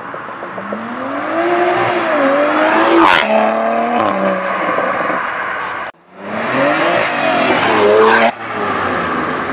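Supercar engine accelerating hard, its pitch climbing, with a sudden change in the note about three seconds in. After a brief break about six seconds in, another hard acceleration climbs again and drops off near the end.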